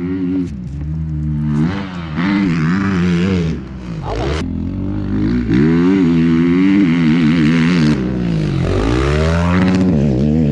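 Off-road engine revving hard as it rides a track. Its pitch climbs and falls over and over, with a deep drop and climb back about eight seconds in.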